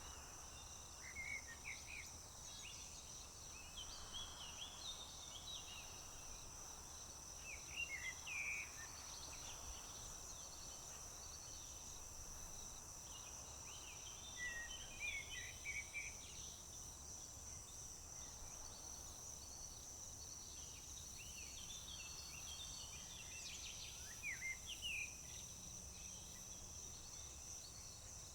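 Crickets chirping, a steady high insect drone heard throughout, with several short bursts of bird song over it.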